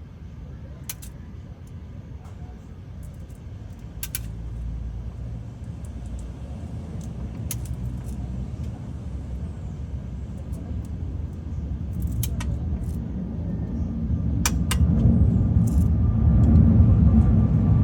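Low vehicle rumble that grows steadily louder, with scattered sharp clicks over it.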